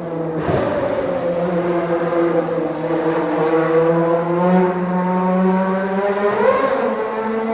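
Formula 1 car's engine at high revs, coming in sharply about half a second in, its pitch sagging slowly as it runs on, then rising again near the end as it revs up.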